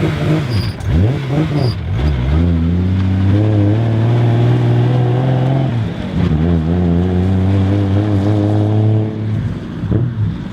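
Nissan Skyline R33's twin-turbo RB26 straight-six pulling away under acceleration: the engine note climbs and holds, dips at a gear change about six seconds in, then climbs and holds again before easing off near the end.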